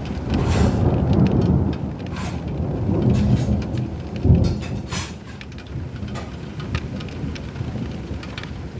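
Thunder rumbling over steady rain, swelling twice with a sharp crack about four seconds in, then dying away.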